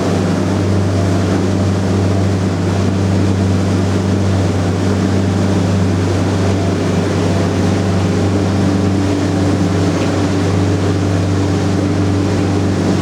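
Motorboat engine running steadily under way: a constant low drone over an even rushing noise. A slightly higher tone joins in about two-thirds of the way through.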